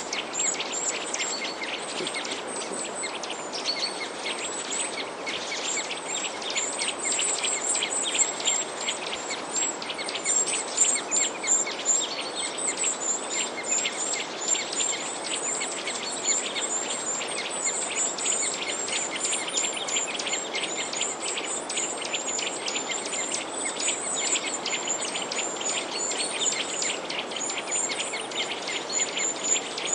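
A dense chorus of many small birds chirping and twittering continuously, rapid high chirps overlapping one another, over a steady background hiss.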